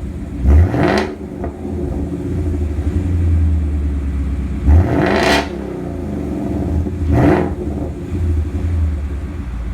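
Ford Mustang 5.0 V8 with a freshly fitted Roush axle-back exhaust idling, revved three times with quick throttle blips that rise and fall back to idle.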